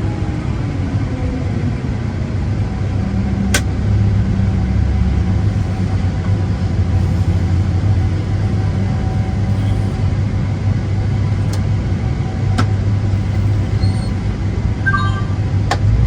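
Farm tractor engine running at a steady speed, a low continuous hum, with a few sharp clicks.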